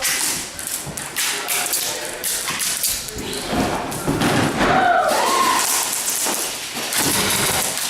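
Irregular thumps and taps, with a brief raised voice a little past halfway.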